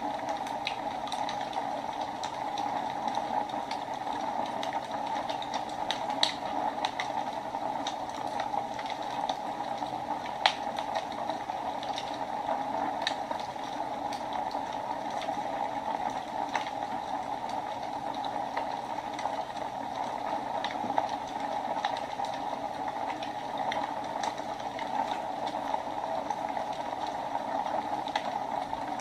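Wood fire burning in a fireplace: a steady hiss of flames with irregular sharp crackles and pops from the burning logs, a few of them louder than the rest.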